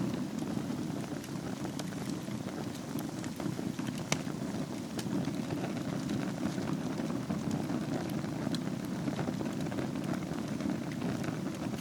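Wood fire burning in a fireplace: a steady low rush of flame with scattered crackles and pops, the sharpest about four seconds in.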